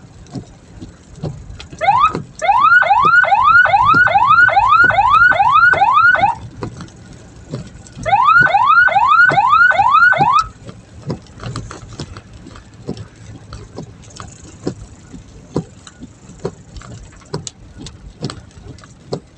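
A hearse's electronic siren sounding in two bursts of quick rising whoops, about two a second: nine whoops, a short pause, then five more, over a low vehicle rumble.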